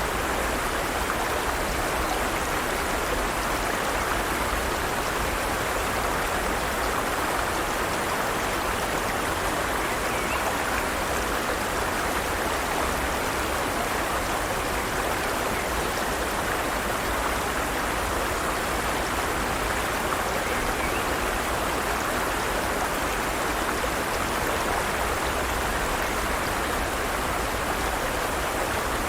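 Forest stream: water running steadily over rocks, an even rushing that does not change.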